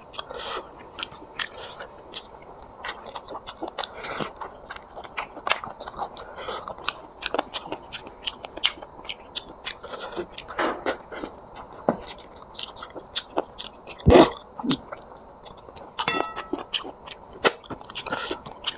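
Close-up wet chewing, biting and mouth smacking of a person eating chicken curry and rice, a stream of irregular clicks and smacks. A single louder sharp knock comes about three-quarters of the way through.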